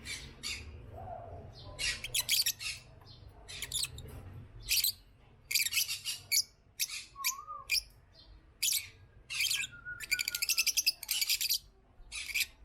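Lovebirds chirping: a string of shrill, short chirps, with a fast chattering run near the end.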